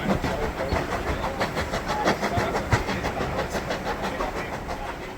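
Steam-hauled train carriage running along the track, with a steady rumble and a rapid, irregular stream of clicks and rattles from the wheels and coachwork.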